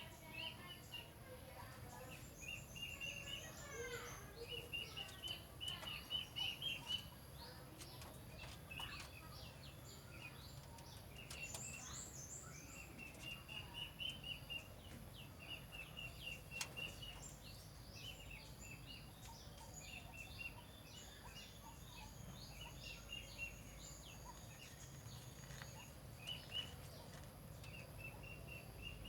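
Birds calling: short runs of quick repeated notes, again and again, mixed with scattered higher chirps over a low background hum.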